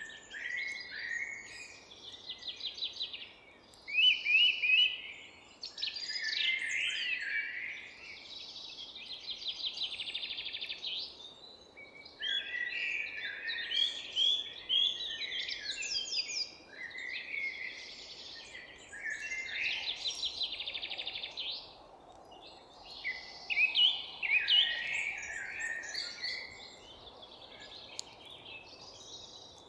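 Several songbirds singing and chirping in a forest: overlapping warbled phrases and rapid trills, with a few louder bursts around four seconds in and again near twenty-four seconds, over a faint background hiss.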